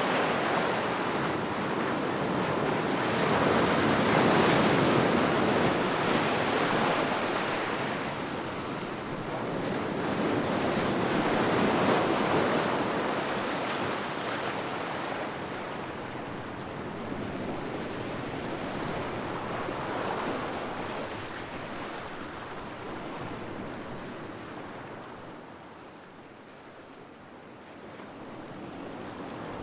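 Sea waves breaking and washing onto the shore, the surf swelling and ebbing in slow surges every several seconds, with a lull near the end.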